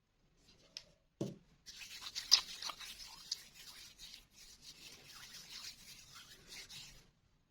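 School chalk being rubbed and scraped into powder: a steady gritty scraping that follows a single soft thump about a second in.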